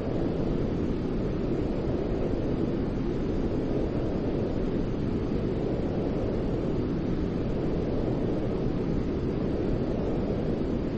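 Steady white noise for soothing a baby: a deep, even rushing sound weighted toward the low end, unchanging in level.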